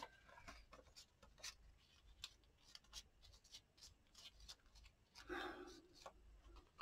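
Faint, scattered rustles and light taps of paper cutouts being handled and moved over a journal page, with a slightly louder rustle about five seconds in; otherwise near silence.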